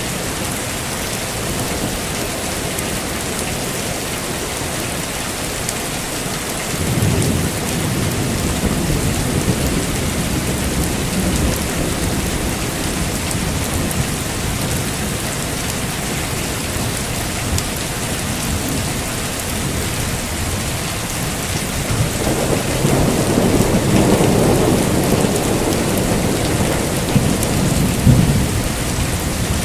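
Heavy rain falling steadily, with thunder rumbling twice: a low rumble starting about a quarter of the way in, and a longer, louder one building in the last third.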